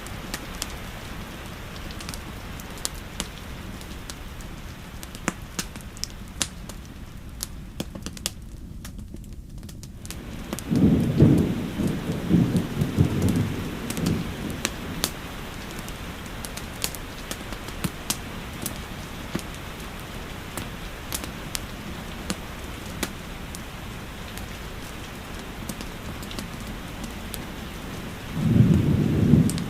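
Steady rain with scattered sharp crackles of a wood fire, and two low rolls of thunder lasting a few seconds each: one about ten seconds in and one near the end.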